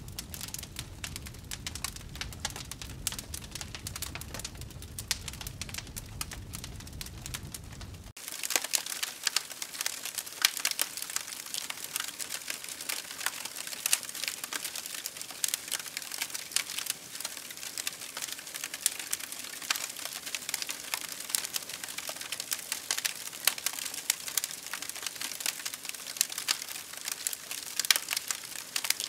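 Campfire crackling and popping, with many sharp pops coming thick and irregular. About eight seconds in, a low rumble underneath stops abruptly and the crackling gets louder.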